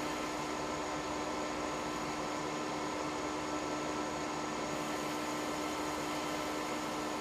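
Machine tool running steadily while re-cutting a 15-degree chamfer on an Inconel part: an even whirring noise with a constant hum.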